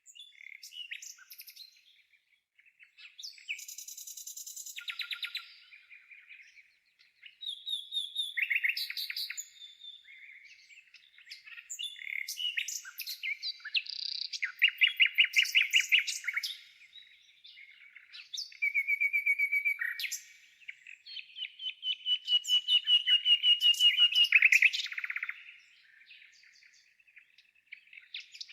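Songbirds singing, with phrases coming every few seconds and overlapping. Several are rapid trills of quickly repeated notes; the longest runs for about three seconds near the end.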